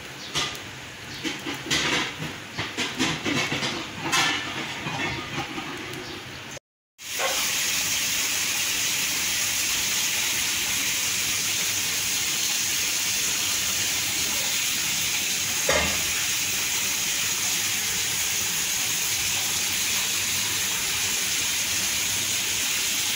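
Bitter gourd and egg omelette frying in oil in a nonstick pan, with scattered pops and crackles for about six seconds. After a brief break, a steady, even hiss runs on.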